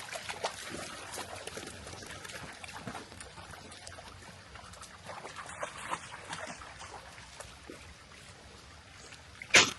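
Dogs wading in floodwater: water trickling and lapping with many small splashes. A single loud, sharp splash or knock comes just before the end.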